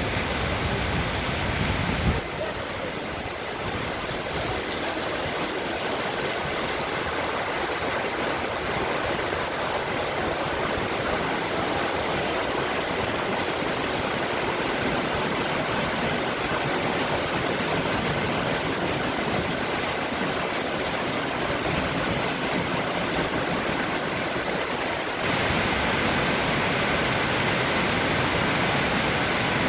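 Waterfall: a steady rush of falling water. The sound shifts in tone about two seconds in and again near the end.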